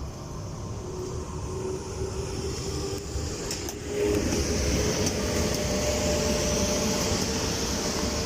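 EP1M electric locomotive running with a passenger train: a steady rolling rumble with a faint electrical hum. A couple of sharp clicks come about three and a half seconds in, and the sound grows louder at about four seconds and stays there.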